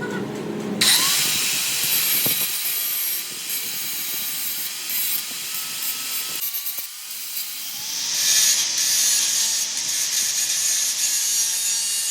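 Hand-held power tool working on metal: a harsh, hissing grind with a thin motor whine that wavers and dips under load, starting abruptly about a second in.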